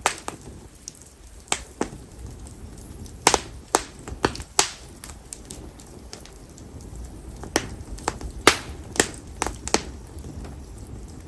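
Campfire of split konara oak logs crackling: about a dozen sharp, irregular pops and snaps over the low, steady rustle of the flames.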